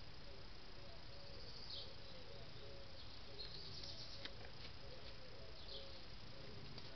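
Faint birds calling over a steady hiss: short high calls that drop in pitch, a few seconds apart, and soft low warbling notes repeating throughout. A few light clicks come about three to four seconds in.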